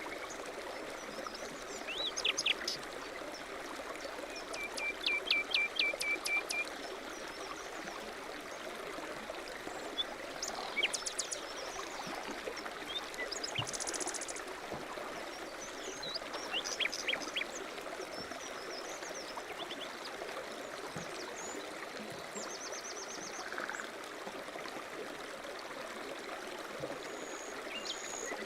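Steady rush of a running stream, with small songbirds chirping and singing short, rapid trills over it every few seconds.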